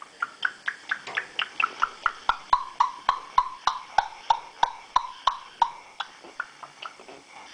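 Yellow-naped Amazon parrot making a rapid string of clicking pops, about four a second. The pitch drops over the first few pops and then holds steady, and the pops slow and fade out near the end.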